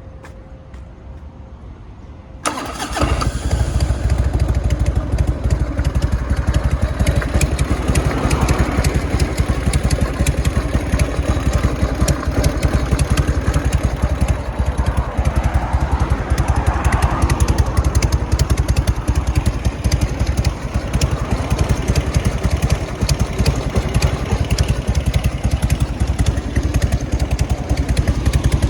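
1998 Harley-Davidson FXD Dyna's Evolution V-twin engine starting about two and a half seconds in, catching at once, then idling steadily with a heavy low pulse.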